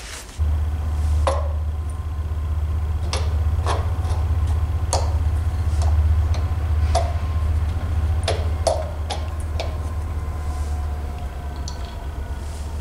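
Scattered sharp metal clicks and taps as the round ignition cover of a Motobecane moped engine is handled, lined up and pressed into place, over a steady low hum.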